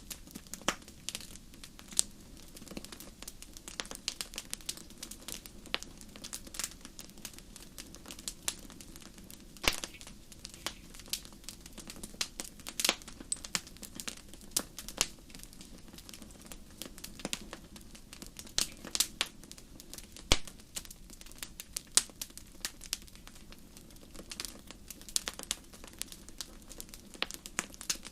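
Wood fire burning in a fireplace: sharp, irregular crackles and pops, often several a second, a few louder snaps among them, over a low steady rumble of the flames.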